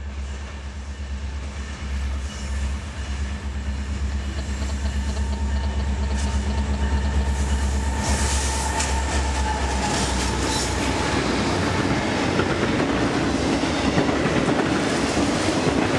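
Diesel freight locomotives approaching and passing close by, their engines a steady low drone, then the rumble and clatter of autorack cars rolling past, getting louder through the second half.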